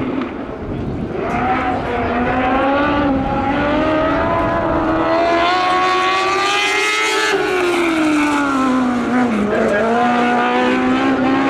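Sprint car engine running hard at high revs on a dirt oval. Its pitch climbs for several seconds, drops off sharply about nine seconds in as the driver lifts for a corner, then rises again as the car gets back on the throttle.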